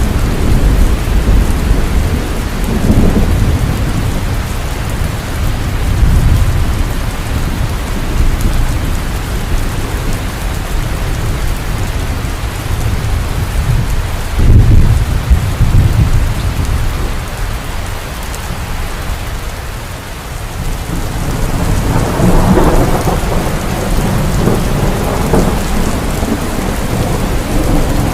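Heavy rain falling steadily, with rolling thunder. Low rumbles come near the start, a sudden clap about halfway through, and another rumble builds a few seconds before the end.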